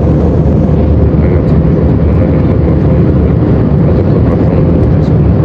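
Airliner cabin noise: a steady, loud rumble of engines and air with a constant hum running through it.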